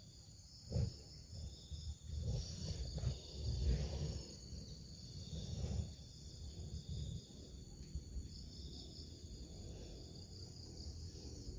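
Insects, crickets or cicadas, shrilling steadily in several high tones, with irregular low rumbles and thumps, loudest from about two to six seconds in.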